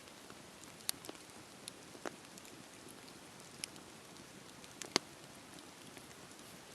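Wood fire crackling: a steady soft hiss with scattered sharp pops, about half a dozen, the loudest about five seconds in.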